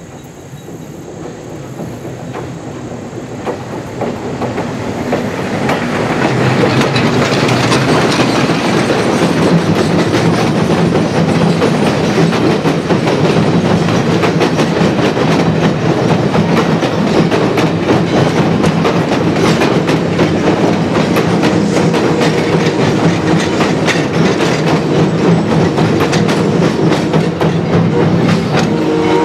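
Wheels of heritage passenger coaches clattering across a steel trestle bridge, with a rapid, continuous run of wheel clicks over a rumble. The sound grows louder over the first six seconds or so as the train arrives, then holds steady.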